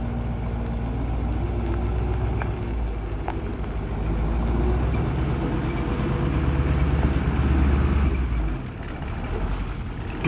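1979 International Harvester Model 1854 truck's engine idling steadily; the deepest part of the rumble drops away about eight and a half seconds in.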